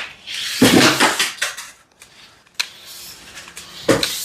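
Small RC buggy skidding and clattering on a hard floor: a hissing rush of tyre noise, then a couple of sharp knocks.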